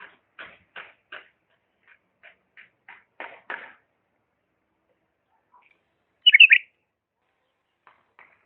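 Bulbul calling: a run of short soft notes, about three a second, for the first few seconds, then after a pause a loud quick warbled phrase about six seconds in, followed by two faint notes.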